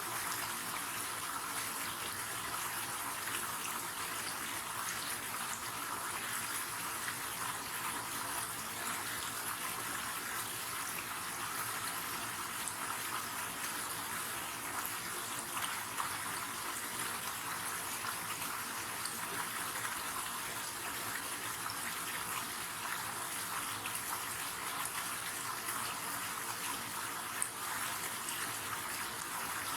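River water running and splashing in a steady rush.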